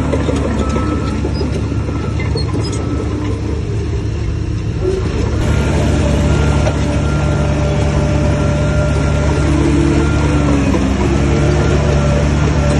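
Heavy earthmoving machine's diesel engine running under load with a steady drone. It eases a little from about three seconds in, then picks up and works harder again from about five and a half seconds.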